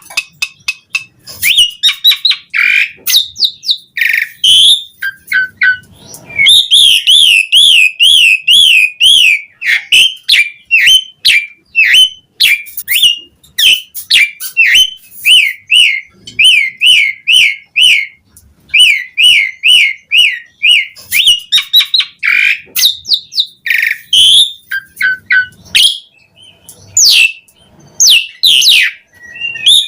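Pied starling (jalak suren) singing in full voice, with its mimicked phrases. Long, rapid zigzag trills alternate with sharp whistles, squeaks and chattering notes, broken by short pauses between phrases.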